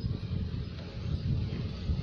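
Wind buffeting the microphone: an uneven low rumble that swells and drops over a faint hiss.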